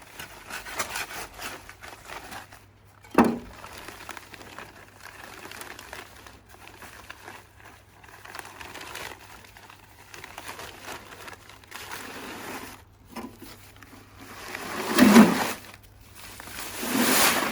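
A plastic bag of ballast (sand with pebbles) being handled and emptied into a wheelbarrow: crinkling plastic throughout, a sharp knock about three seconds in, and two louder rushes of gravel pouring out near the end.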